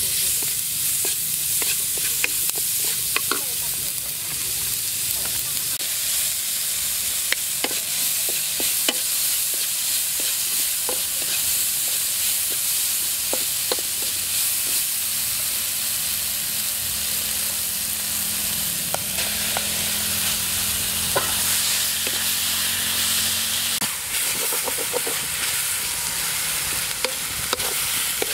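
Stir-fry sizzling in hot oil in a wok, stirred with a wooden spatula that scrapes and taps the pan now and then as scattered clicks.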